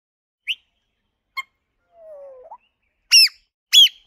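Bird chirps and calls: a short high chirp, a click, a low falling whistle, then two loud chirps that sweep sharply downward near the end.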